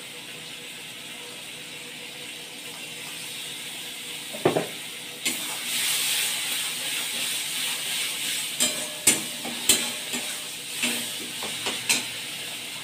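Tomato paste and masala sizzling in oil in a metal kadai. The sizzle grows louder about five seconds in as a metal spatula stirs it, with several sharp clicks of the spatula striking the pan; one knock comes just before.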